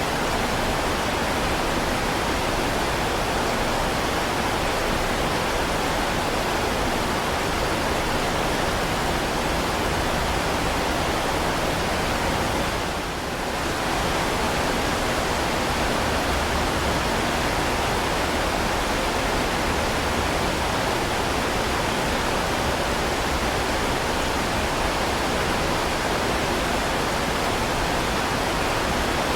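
Heavy rain falling in a steady, even hiss, with a brief dip in level about halfway through.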